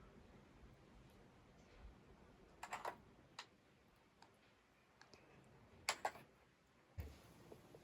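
Quiet background broken by a few short, sharp clicks and clacks, in small clusters about three and six seconds in and once more near the end.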